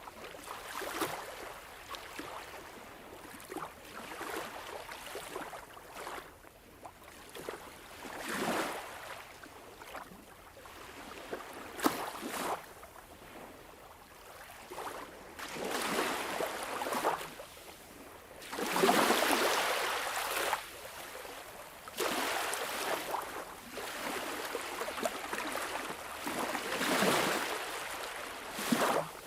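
Sea waves washing in and drawing back in repeated swells every few seconds, a few of them louder with a sharper splash.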